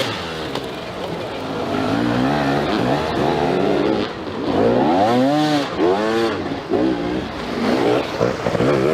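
Dirt bike engine revving hard, its pitch rising and falling again and again as the rider opens and closes the throttle and shifts through the gears.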